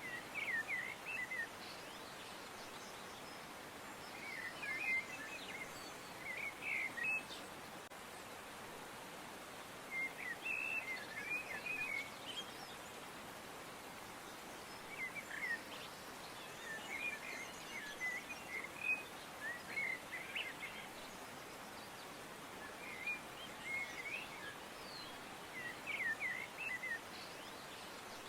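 Small birds chirping in short bursts of quick twittering notes every few seconds, over a steady background hiss.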